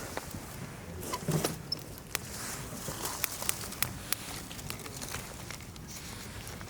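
Wood campfire crackling, with irregular sharp pops and snaps, and a louder low knock and rustle about a second in.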